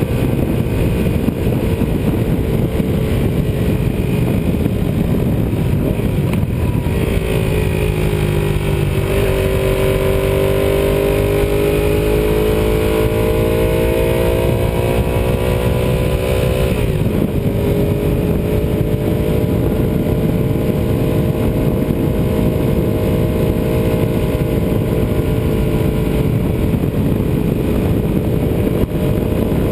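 Ducati 748R's 90-degree V-twin engine running under way, with heavy wind rush on the microphone. The engine note sags about seven seconds in, then climbs steadily as the bike accelerates. It drops sharply at an upshift about seventeen seconds in, then holds nearly steady at cruise.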